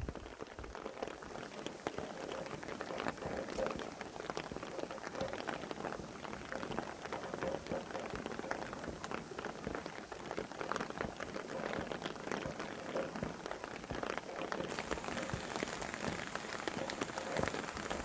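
Steady rainfall, with many separate raindrops hitting a surface.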